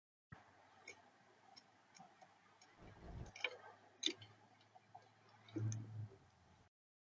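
Irregular sharp clicks and taps at a bird feeder close to the camera's microphone, the kind made by beaks and feet on the feeder, with two dull low bumps, near the middle and toward the end. The sound starts and stops abruptly, as a motion-triggered clip.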